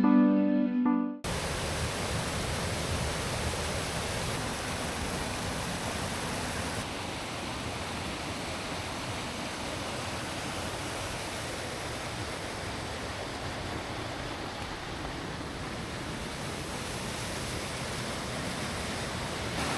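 Plucked-guitar background music stops abruptly about a second in, giving way to the steady rushing of a large waterfall.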